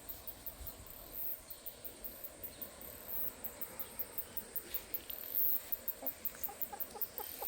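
Insects, crickets by their sound, chirping high-pitched in a steady rhythm of about three to four pulses a second.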